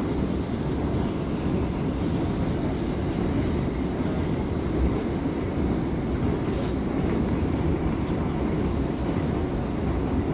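R179 subway car heard from inside the car as it runs along the track: a steady rumble of wheels on rail with faint clicks.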